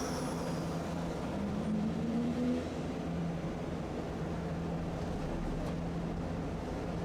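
Tosaden streetcar running on its rails: a steady low rumble and hum, with a motor whine that rises in pitch for about a second, a little over a second in.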